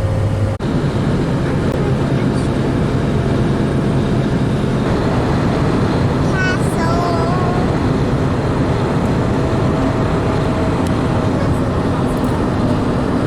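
Steady road and engine noise from a V8 pickup truck towing a trailer at highway speed, heard from inside the cab.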